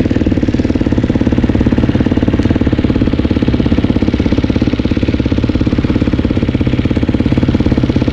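Dirt bike engine idling steadily with a fast, even pulse, shortly after a kickstart on a cold engine.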